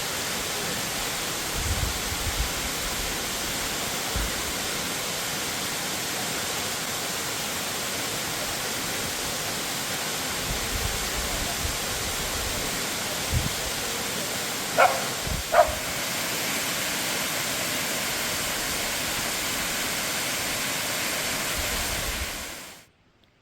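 Waterfall of about 25 metres, falling water rushing in a steady, even noise. Two short sharp sounds come about 15 seconds in, and the water sound drops away suddenly near the end.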